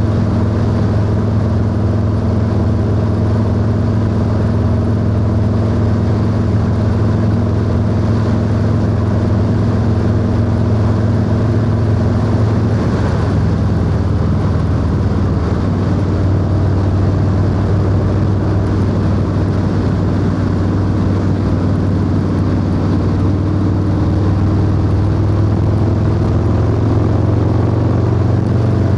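Harley-Davidson Low Rider S V-twin engine and exhaust running steadily under way. The engine note changes about halfway through, then climbs slowly toward the end.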